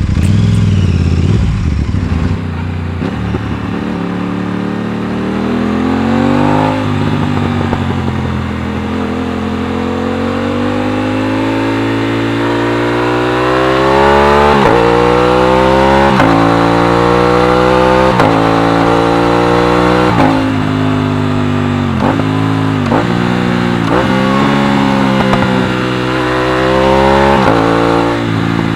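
Aprilia RS660's parallel-twin engine pulling hard, its pitch climbing and then dropping sharply at each gear change, about a dozen times, with a quicker run of shifts in the second half.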